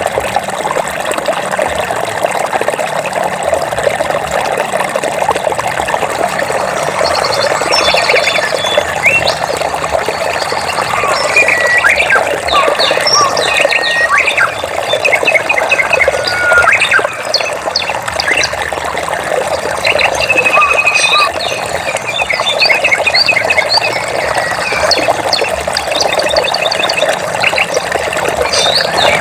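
Running water, a steady rushing flow, with birds chirping and trilling over it from about seven seconds in, their short calls coming thick and fast.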